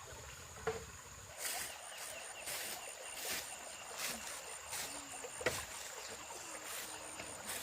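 Repeated splashing in water, a noisy stroke about once a second, over a steady faint high-pitched whine.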